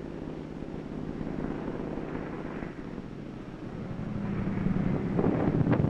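Propeller-driven carrier plane's piston engine droning as it comes in to land, growing louder, with a burst of clattering knocks near the end as it comes aboard.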